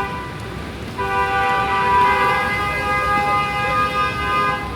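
Vehicle horn held down in one long steady two-note blast, starting about a second in and stopping near the end, over a background hiss of wet street traffic.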